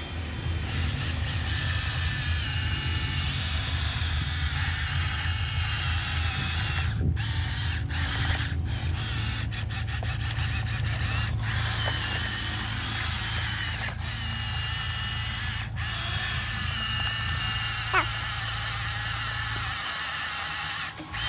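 Small electric drive motors and plastic gearing of a Huina 1573 remote-control dump truck running with a steady whine over a low hum. The hum drops away near the end.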